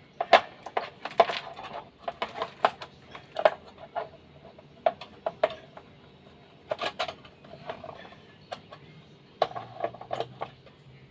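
Irregular sharp metallic clicks and clinks in small clusters: small metal parts and tools being handled while fitting a refrigerator defrost timer.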